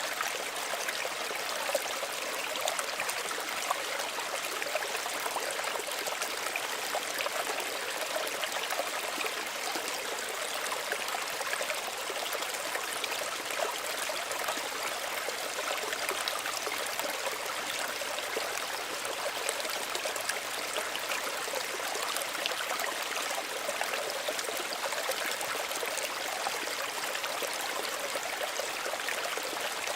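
Small stream running steadily, a continuous trickling and babbling of shallow water over stones, bright and even with no low rumble.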